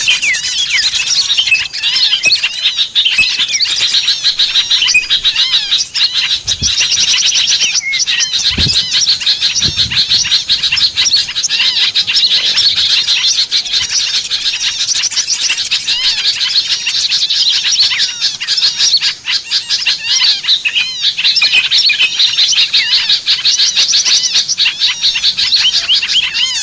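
Many small songbirds chirping and twittering at once in a dense, high-pitched chorus of quick repeated calls: a bird-lure recording used to draw small birds in.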